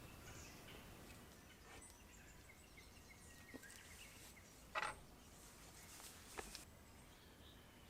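Faint small-bird chirps and calls, with a few sharp clicks or pops, the loudest about five seconds in and two smaller ones near 6.5 seconds.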